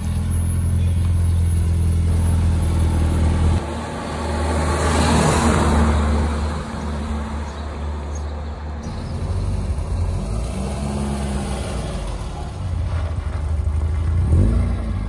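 Volkswagen Scirocco Mk1 GLI with the Golf GTI's 110 hp four-cylinder engine, heard in a few short drive-by shots. First a steady engine note, then a pass where engine and tyre noise swell and fade, then the engine revving up and down near the end.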